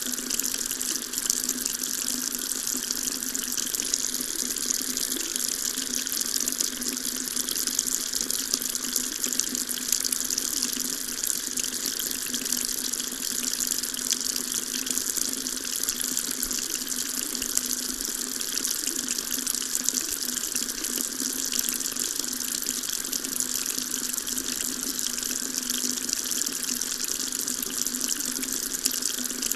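Water tap running steadily, a continuous splashing stream of water.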